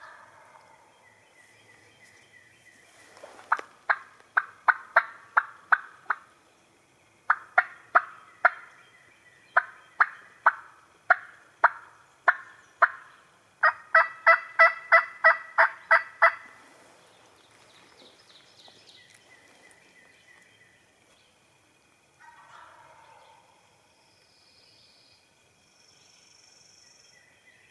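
Turkey yelps: four runs of sharp, evenly spaced notes, about three a second, with the last run the loudest.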